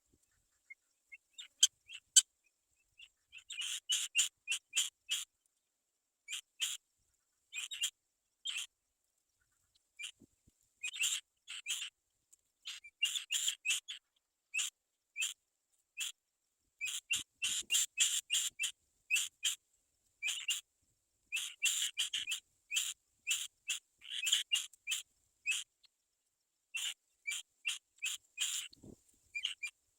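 Black-winged kite chicks calling: short, high, whistle-like calls in quick clusters, repeated again and again, starting a few seconds in.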